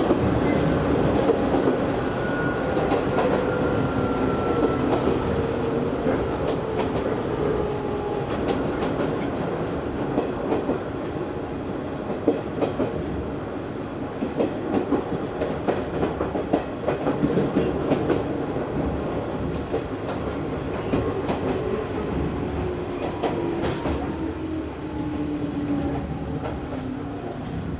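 Izu Hakone Railway Series 3000 electric train heard from inside the car, wheels clicking over rail joints with a whine from the drive that slowly falls in pitch as the train slows.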